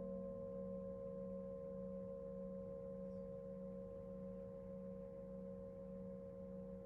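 Singing bowl ringing out: a low hum with a few higher overtones held steady and slowly fading, the lowest tone gently wavering.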